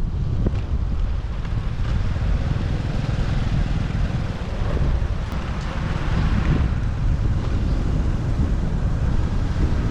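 Wind buffeting the microphone of a moving motorbike, over a steady rumble of the ride and street traffic.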